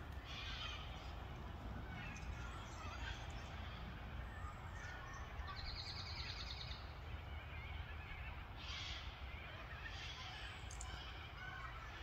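Wild birds calling: scattered high chirps and calls, with a rapid trill lasting over a second about halfway through, over a low steady rumble.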